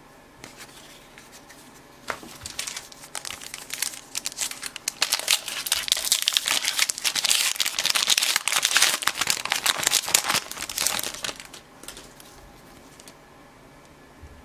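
Plastic wrapper of a baseball card pack being torn open and crinkled by hand. The crackling starts about two seconds in, grows loudest in the middle and dies away a few seconds before the end.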